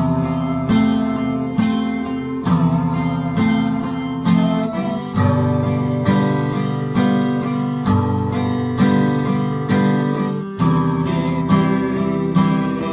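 Acoustic guitar played in waltz time: an accented low-string stroke on each beat followed by lighter down-up strokes on the treble strings, with the chord changing several times.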